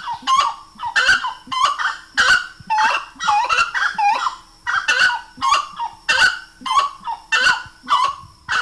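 Grey-cowled wood rail (saracura-três-potes) calling: loud, honking call notes repeated in a steady run, about three a second.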